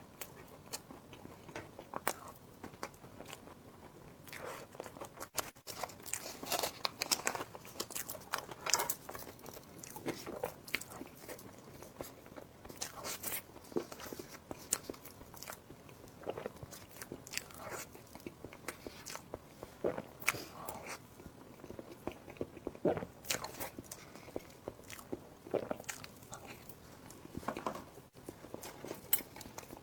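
Close-miked eating: irregular crunchy bites and chewing, many short crackly crunches coming in clusters.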